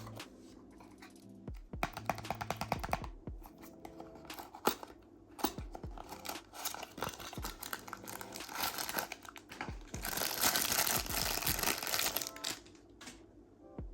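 Miniature toy car packaging being opened by hand: crinkling and tearing with many small clicks and taps, the crinkling thickest from about ten to twelve and a half seconds in.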